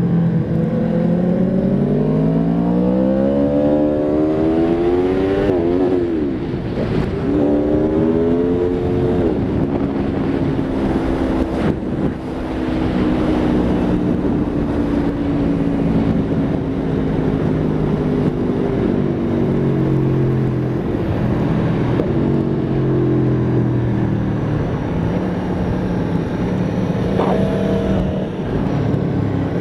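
Aprilia Tuono V4 RR's V4 engine under way on track: the revs climb over the first few seconds, drop sharply about six seconds in, rise briefly again, then ease slowly lower at a gentler pace.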